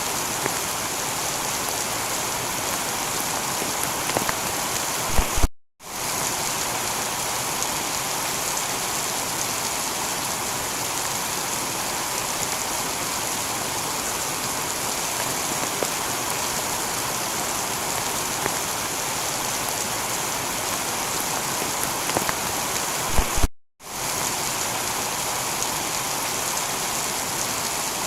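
Heavy rain falling steadily on a tiled roof, an even hiss of drops. Twice, about five seconds in and again a few seconds before the end, the rain cuts out for a split second, just after a brief low bump.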